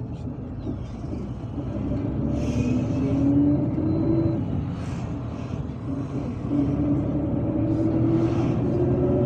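MAZ-257 bus's diesel engine and drivetrain pulling under acceleration, with a whine that rises in pitch twice, dropping back about halfway through as the transmission changes gear. Short hisses sound over the steady low rumble.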